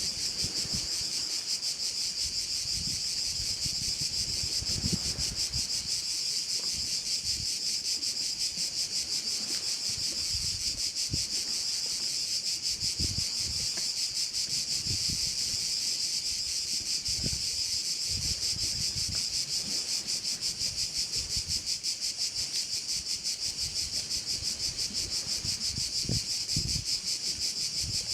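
Chorus of cicadas giving a continuous high, rapidly pulsing buzz that holds steady throughout.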